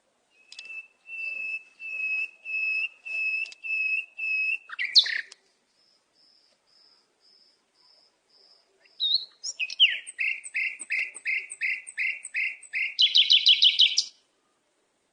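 A bird singing: a string of clear repeated notes, about two a second, then a faint higher series, then a faster run of notes that ends in a rapid trill and stops suddenly.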